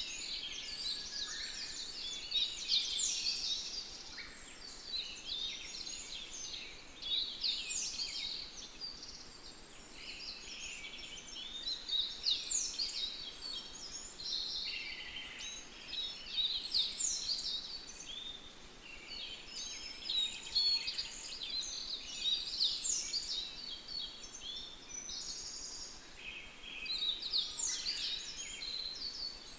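Songbirds singing: continuous high chirping, with a louder song phrase sweeping down from high pitch about every four to five seconds.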